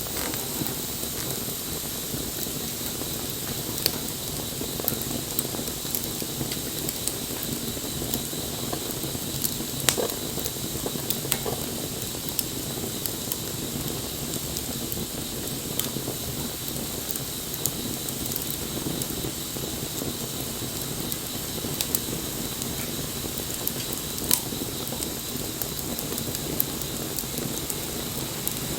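Wood bonfire burning: a steady hiss of flame with scattered sharp crackles and pops, a few of them louder snaps.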